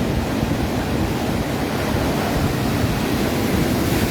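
Atlantic surf washing steadily onto a beach, with wind on the microphone.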